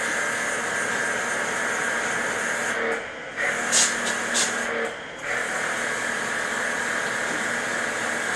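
Steady hiss of gas flowing. It cuts out briefly about three seconds in and again about five seconds in, with two short, sharper hisses between the breaks.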